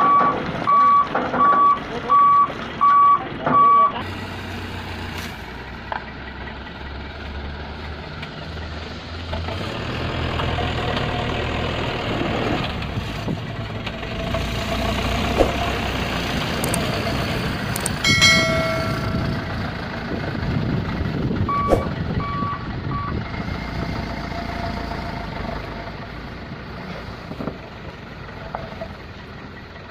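Dump truck reversing, its back-up alarm beeping about twice a second for the first few seconds, then its diesel engine running and rising and falling in loudness. A short horn blast sounds about 18 seconds in, and the reversing alarm beeps three more times soon after.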